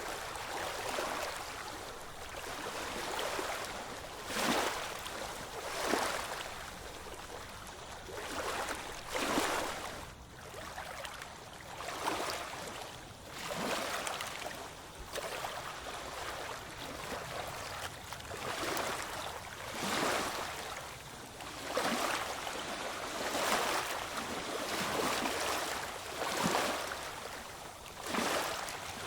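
Small ocean waves washing in, a hiss of moving water that swells every one to two seconds.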